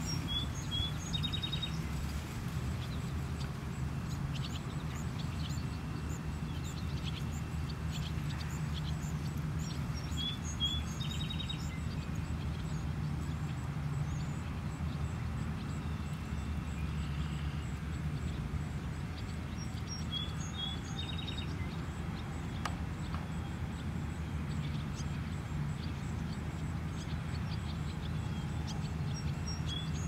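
A bird singing the same short, high phrase about every ten seconds, over a steady low outdoor rumble.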